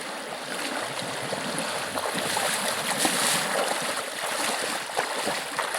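River water running steadily, swelling a little louder for about a second in the middle, with a few small splashes or clicks.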